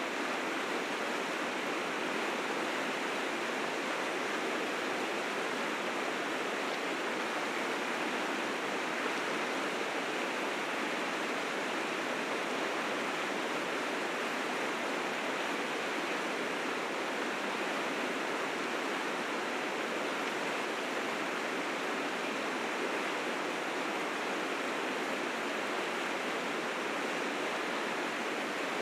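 River rapids rushing steadily in spring flood, the water running fast and heavy with snowmelt.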